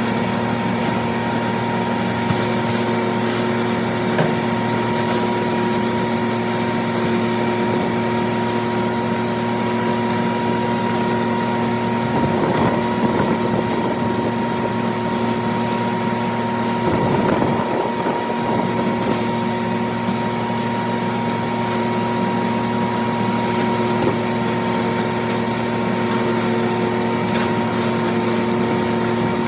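John Deere 4230 tractor's six-cylinder diesel running at a steady speed, driving a New Holland 355 grinder-mixer's hammermill through the PTO while grinding corn for cattle feed. Loud, even hum that turns briefly rougher about 12 and 17 seconds in.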